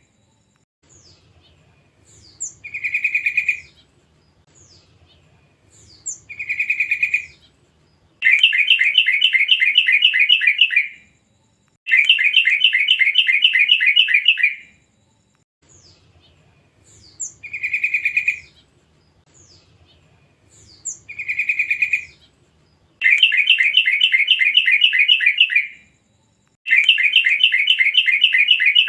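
Young yellow-vented bulbul (trucukan) calling: brief chattering notes alternate with long, rapid bubbling phrases of about three seconds each. The same sequence repeats about halfway through, as in a looped lure recording.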